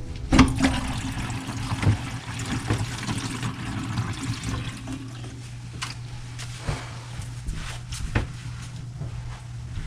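Water running from a bathroom sink faucet into the basin, heavier for the first five seconds and then lighter, with a few light knocks.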